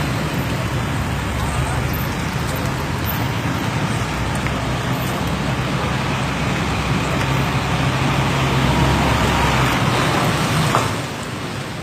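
Steady road traffic noise with a heavy vehicle's engine running nearby. The engine grows louder toward the end, then falls away shortly before the close.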